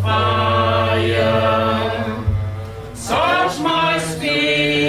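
A church choir singing a slow worship chorus, holding long notes, the pitch shifting about three seconds in. A low steady tone sounds beneath the voices and stops a little after two seconds.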